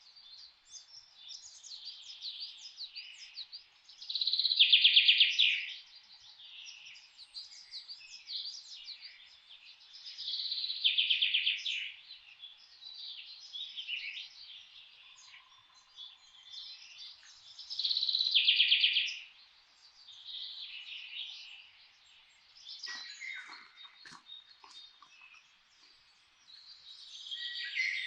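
Songbirds singing and chirping, with many short high calls. One loud, rapid trilled song comes three times, roughly every six to seven seconds. A few short clicks sound near the end.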